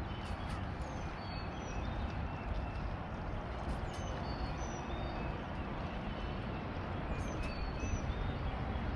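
Birds singing, with many short high whistled notes repeating over a steady low rumble.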